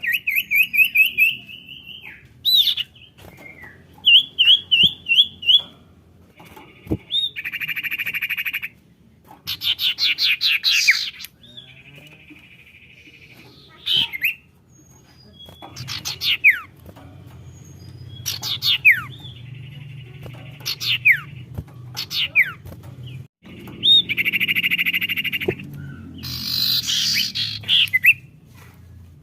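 Female common iora (sirtu/cipoh) lure calls: series of quick rising chirps, buzzy trills and sharp down-slurred whistles, repeated in phrases with short pauses.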